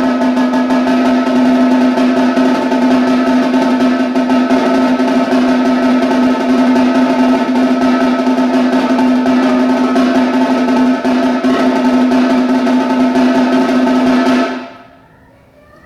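Snare drum played in a loud, sustained roll that stops abruptly about a second before the end, the drum ringing briefly as it fades.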